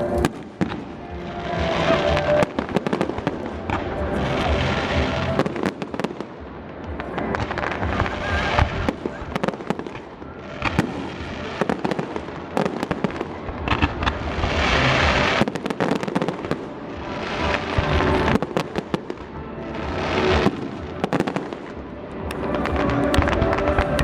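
Aerial fireworks display: many sharp bangs, with swells of crackling every few seconds as shells burst overhead.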